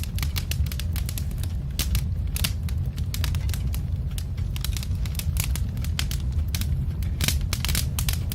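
Log fire crackling: irregular sharp pops and snaps over a steady low rumble of flames.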